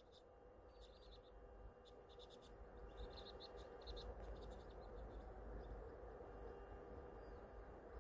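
Faint twittering of small birds: clusters of short, high chirps over the first half, over a low steady rumble.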